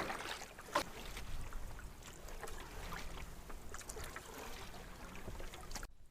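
Canoe paddling: irregular paddle splashes and water sounds, with a sharp knock just under a second in. The sound drops off abruptly near the end.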